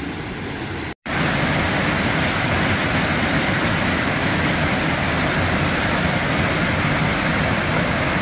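Waterfall water rushing steadily over rocks. It drops out for an instant about a second in and comes back louder.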